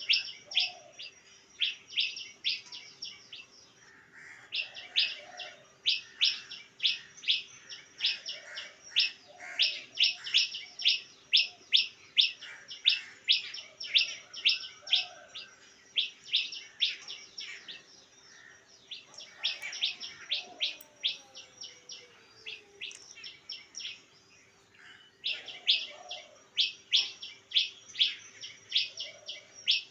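Bird chirping: quick runs of short, high, sharp chirps, several a second, broken by brief pauses.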